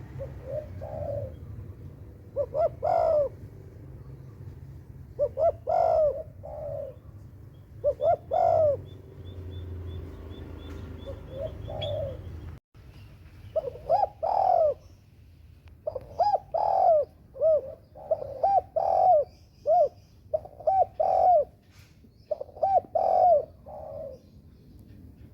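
Doves cooing in repeated phrases of a few rounded, arching notes, coming faster in the second half. A low rumble underlies the first half.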